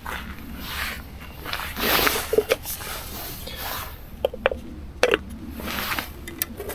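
Camp stove gear being handled: rustling and scraping with several short sharp clicks and light knocks.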